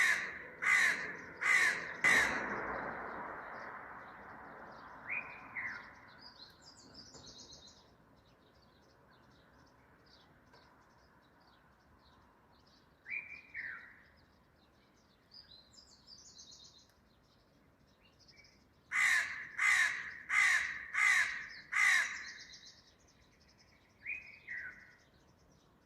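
Crow cawing in runs of harsh, evenly spaced caws: about four at the start and five more about twenty seconds in, with single two-note calls in between. Smaller birds chirp faintly in the background.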